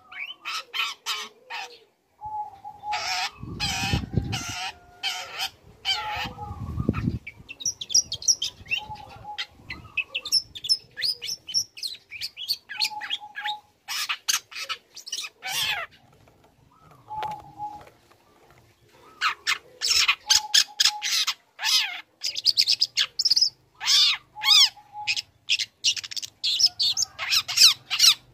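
Young long-tailed shrike (cendet) in full song: a fast, scratchy chatter of harsh notes mixed with short whistled notes, with a brief lull in the middle. Low thuds sound a few seconds in.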